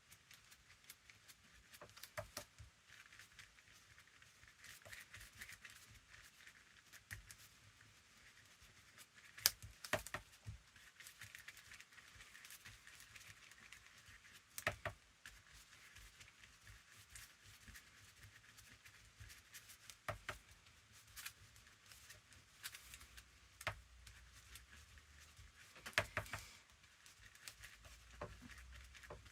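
Quiet crafting-table handling: the soft scrape of glue being spread thinly over paper and light paper rustling, broken by scattered small taps and clicks, the sharpest about ten and fifteen seconds in and again near twenty-six seconds.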